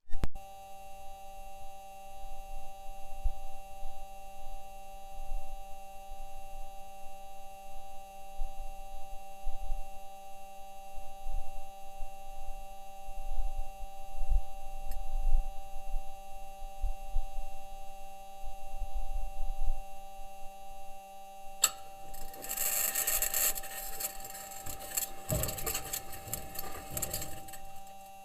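Perseverance Mars rover's six metal wheels crunching and clanking over rock as it drives, picked up by its entry, descent and landing microphone. Low knocks and rumble at first, then about 22 seconds in a louder scraping, grinding rasp, all under a layer of steady whining tones.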